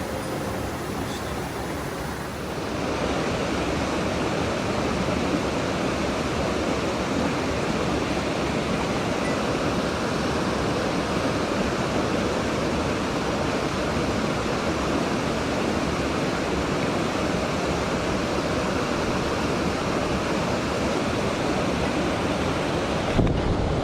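Mountain stream water rushing in a steady, even roar, growing louder about two seconds in as the last of some music fades out.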